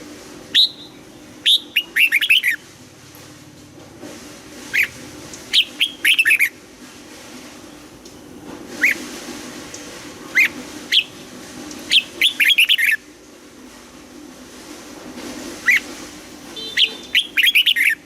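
Red-whiskered bulbul singing short phrases of quick, clear whistled notes, each phrase lasting under a second, repeated every one to three seconds.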